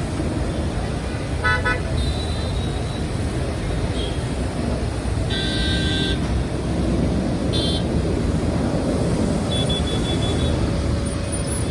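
Steady road-traffic noise with car horns tooting several times: a short toot, a longer horn of about a second, then two more short toots.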